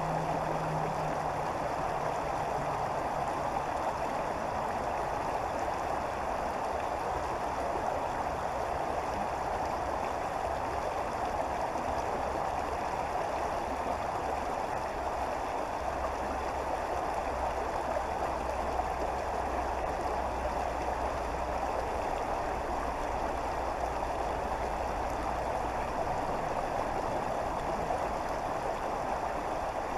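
Creek water flowing steadily, a constant rushing. A faint low rumble joins it about halfway through for several seconds.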